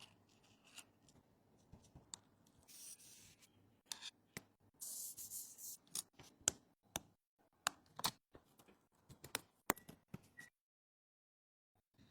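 Small tools and parts clicking, tapping and scraping during close-up phone repair work, with two short hisses about three and five seconds in. The sound cuts off abruptly near the end.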